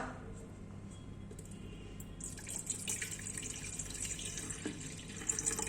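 A brief knock, then water running into a kettle, starting about two seconds in and going on steadily.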